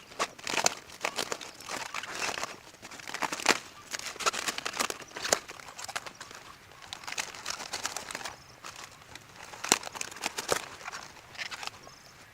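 Irregular rustling and crinkling with many sharp little clicks and crackles, coming in busy spells with short quieter gaps.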